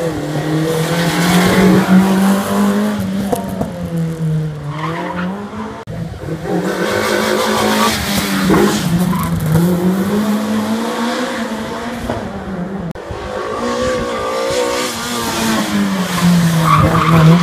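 A small hatchback race car's engine, a Fiat Uno, revved hard and lifted off again and again, its note rising and falling several times as it runs a tight slalom course.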